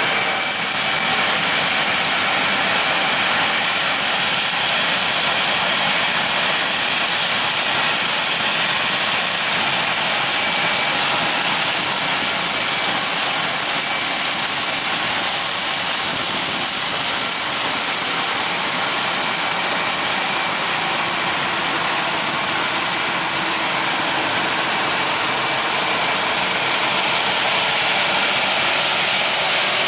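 Combine harvesters running steadily while harvesting corn: a dense, even machine din with a thin steady high whine through it.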